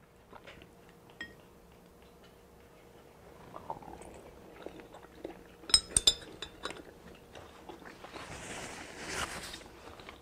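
Quiet mouth sounds of someone eating malatang with chopsticks: soft chewing, with a cluster of sharp clicks and smacks about six seconds in and a soft breathy rush near the end.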